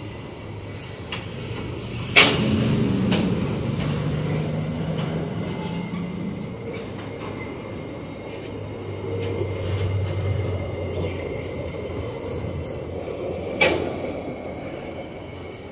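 Freight train gondola wagons rolling past on the rails, a steady low rumble of wheels and cars, with two sharp metallic clanks, one about two seconds in and another near the end.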